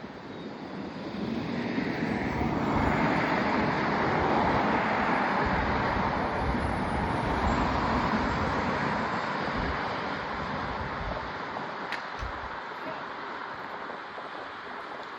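A road vehicle passes close by: its tyre and road noise swells over a couple of seconds, holds, then slowly fades away, with wind buffeting the microphone. A single sharp click sounds about twelve seconds in.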